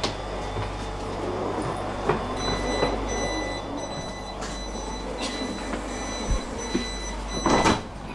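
Passenger train running, heard from on board: a steady low rumble with scattered clicks and knocks. A high steady whine joins about two seconds in, and a louder clunk comes near the end.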